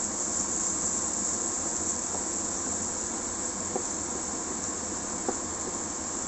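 Egg, tomato and onion sizzling in a nonstick frying pan, a steady hiss, as a wooden spatula stirs and lightly taps the pan a few times.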